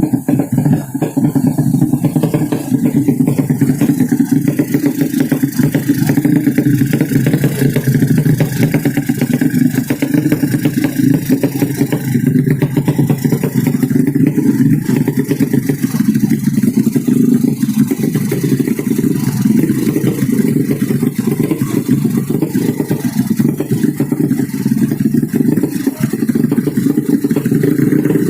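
A modified 200cc underbone (bebek) drag-racing motorcycle engine running loud and steady with a rapid, rough pulse. Its pitch holds without any big rise or fall.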